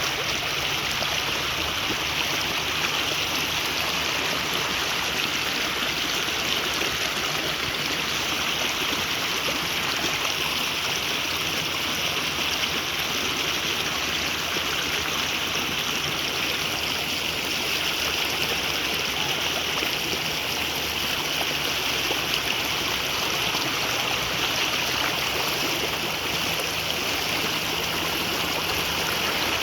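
Flowing water rushing steadily, an even, unbroken noise.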